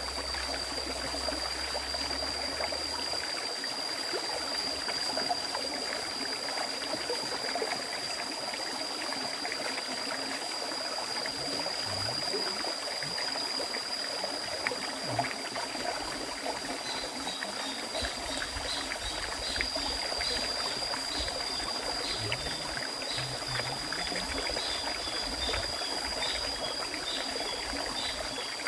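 River stream flowing steadily over rocks, a continuous rushing and trickling of water. A steady high whine runs over it, and from a little past halfway a quick series of short high chirps repeats to the end.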